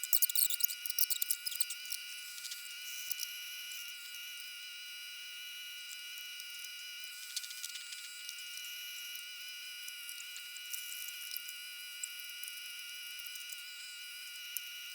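Chorus of insects trilling, several steady high-pitched tones layered together, with a flurry of rapid chirps in the first couple of seconds.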